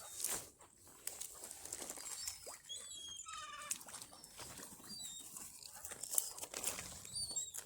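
Birds calling: one louder, wavering call about three seconds in, among short high chirps of smaller birds, over light rustling.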